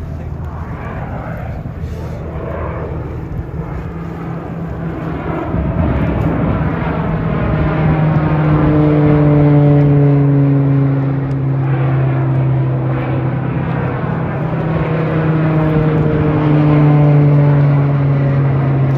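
Aircraft engine drone as a plane flies past, growing louder from about five seconds in, with its pitch sinking slightly as it goes by.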